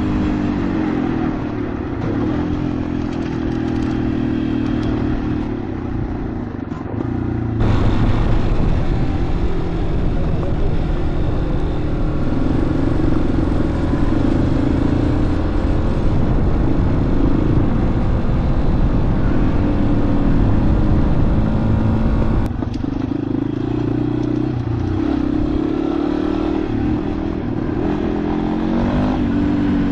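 Motorcycle engine running under way at a fairly steady speed, its note drifting gently up and down over a heavy rumble. The sound changes abruptly twice, about a quarter of the way in and about three quarters of the way in.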